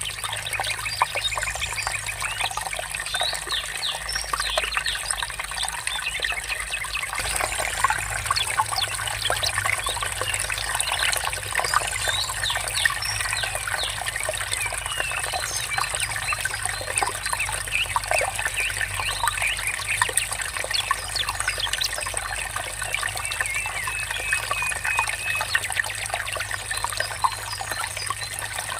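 Stream water trickling and babbling steadily, with birds chirping over it.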